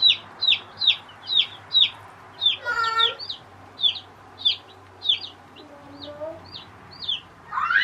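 Chicks peeping, a steady run of short, high, falling peeps at about two a second.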